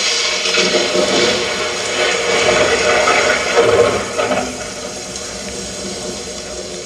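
Audience applause that gradually fades away.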